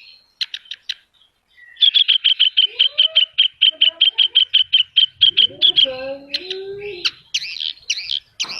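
Javan bush lark (branjangan) singing: a long run of rapid, repeated high notes at about six a second, breaking into varied whistles and glides near the end. This is the mixed song, full of fills, of a bird in full voice.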